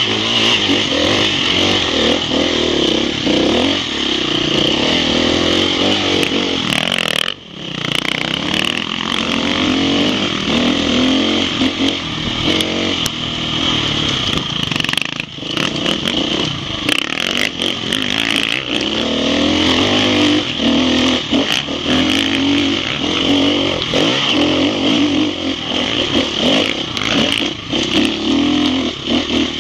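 Enduro motorcycle engine running under riding load, revving up and down with the throttle. The engine sound drops sharply for a moment about seven seconds in, and dips briefly again near the middle.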